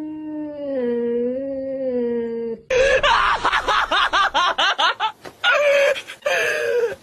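A cat's long, drawn-out yowl with a slowly wavering pitch, then an abrupt cut to loud, rapid, high-pitched squeals at about five a second.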